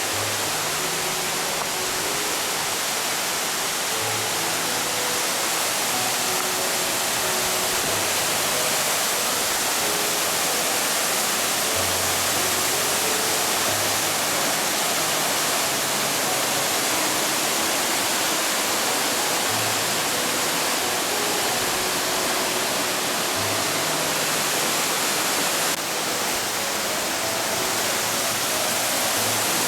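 Steady rushing of a waterfall, with soft background music of short, quiet melody notes laid over it.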